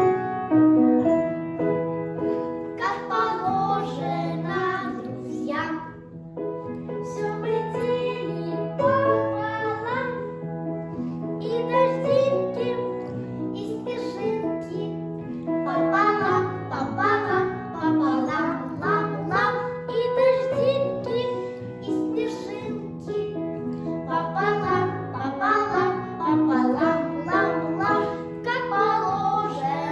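Two children singing a duet over instrumental accompaniment.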